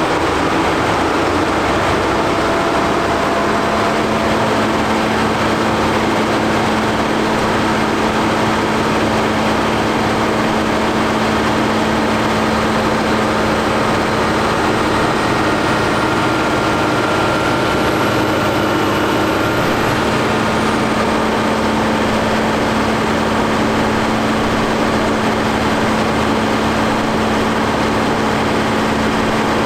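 Fendt 716 tractor engine running steadily under load on a PTO dynamometer, a loud, even drone with no change in speed.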